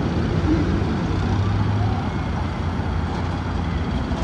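A motor vehicle engine running steadily, a low rumble with traffic-like noise over it.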